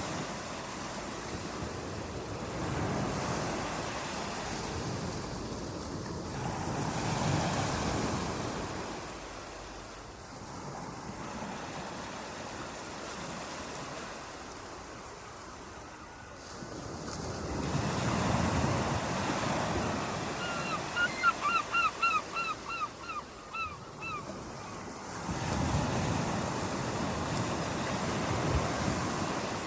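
Ocean waves washing onto a shore, the surge swelling and easing every few seconds. About two-thirds of the way in, a bird gives a quick run of about ten short calls over some four seconds.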